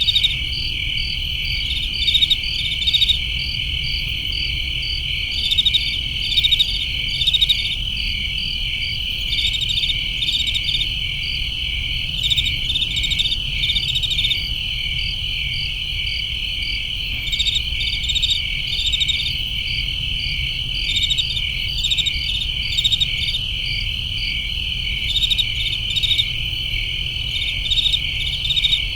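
Crickets chirping: a steady high trill with clusters of sharper, higher chirps over it every second or two, over a low steady rumble.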